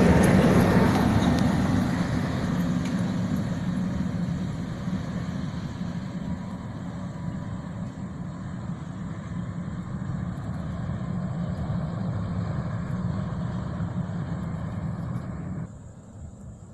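Heavy coal-hauling truck driving past, loudest at the start and fading steadily as it moves away. The sound drops off suddenly near the end.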